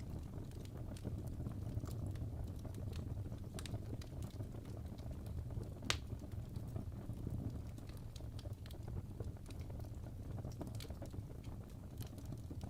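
Wood fire crackling in a fireplace: irregular pops and snaps over a steady low rumble, with one sharper crack about six seconds in.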